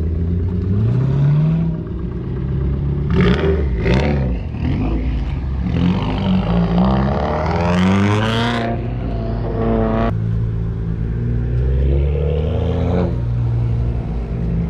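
Car engines idling at a steady low drone, with one being revved several times: short rising revs early on, then a longer climb in pitch that cuts off suddenly before the idle carries on.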